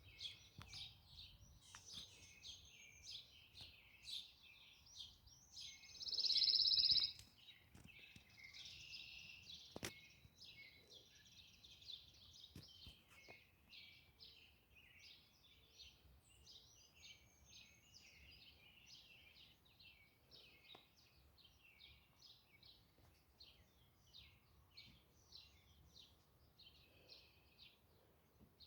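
Small birds chirping, a busy run of short high chirps one after another, with one louder burst of calling lasting about a second some six seconds in.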